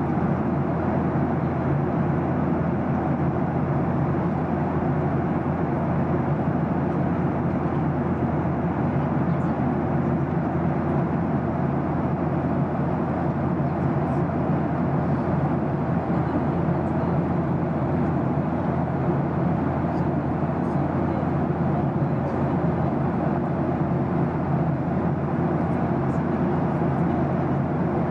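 Steady cabin noise of a jet airliner in flight: an even rush of airflow over a low drone from the engines.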